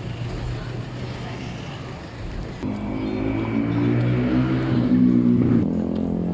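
Street noise with traffic, then loud music with a stepping bass line starts about three seconds in.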